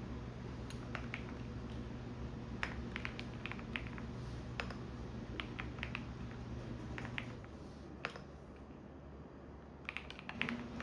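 Computer keyboard typing in short runs of keystrokes over the low steady hum of a running washing machine; the hum drops off partly about seven and a half seconds in.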